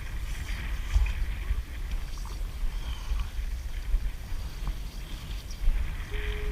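Wind rumbling on the microphone of a kayak at sea, with faint scattered knocks and water sounds from handling gear. A brief steady tone starts near the end.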